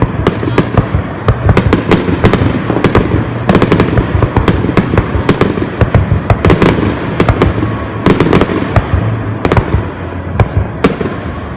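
Aerial fireworks display: many shells bursting in quick succession, a dense, loud run of bangs and cracks over a continuous low rumble, with no pause.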